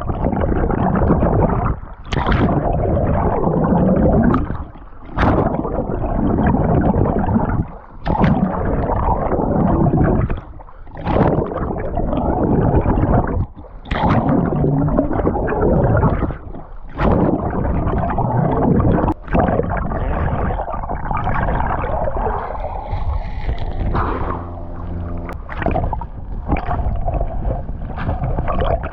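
Water churning and gurgling close to the microphone while swimming, broken by short drops in level every couple of seconds.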